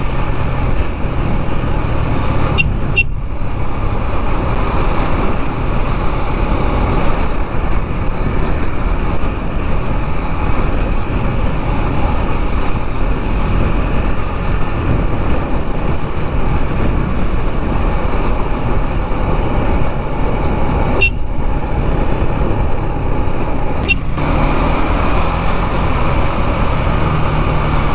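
KTM Duke 390's single-cylinder engine running steadily while the motorcycle is ridden through traffic, with road noise. The sound dips briefly a few times.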